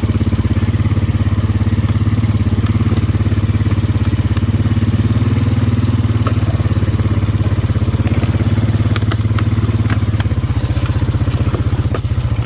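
ATV engine running steadily while it is ridden, with a few light clicks and rattles over it.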